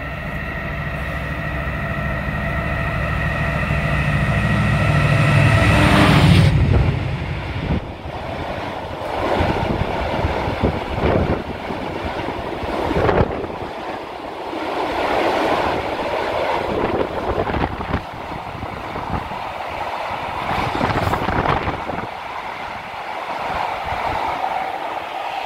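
A diesel freight locomotive's engine drones, growing louder as it approaches, and passes beneath about six seconds in. The freight wagons then roll past with a steady rumble of wheels on rail and irregular knocks and rattles.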